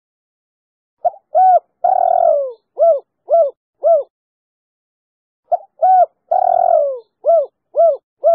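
Female spotted dove (tekukur) singing its three-note-ending 'kuk 3' song, twice, about four seconds apart. Each phrase is two short notes, one long falling coo, then three short coos.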